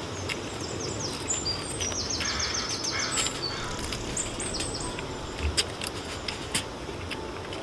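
Birds chirping, with a quick run of high repeated chirps about two seconds in, over a steady low outdoor rumble, with a few sharp clicks in between.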